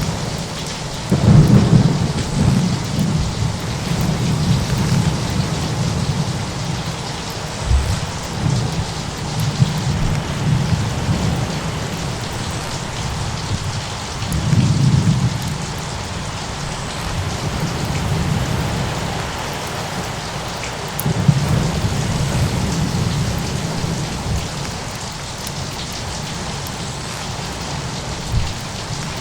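Thunderstorm ambience: a steady rain-like hiss under low rolls of thunder, with the biggest rumbles about a second and a half in, near the middle and a little after.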